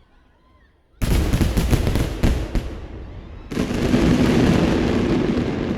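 Aerial fireworks bursting: a sudden loud boom about a second in, followed by crackling, then a second loud burst a little past halfway that slowly dies away.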